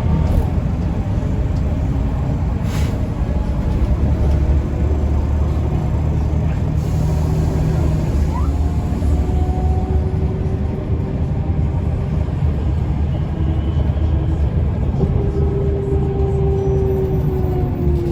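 Mercedes-Benz O405N2 city bus under way, heard from inside: a steady low engine and drivetrain drone mixed with road noise. A whining tone rises near the end and then drops slightly.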